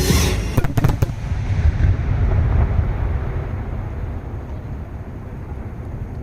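Fireworks: a quick cluster of sharp bangs about half a second to a second in, then a low rumble of the bursts rolling away and slowly fading.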